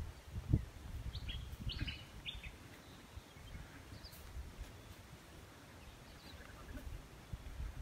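Birds chirping, a short cluster of quick high notes about a second in and a few fainter chirps later, over a low outdoor rumble that carries a single thump about half a second in.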